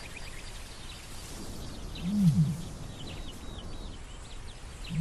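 Male ostrich booming: a low, hooting call about two seconds in, with another beginning near the end. This is the display call he makes with his inflated throat pouch to signal his territory. Small birds chirp faintly behind it.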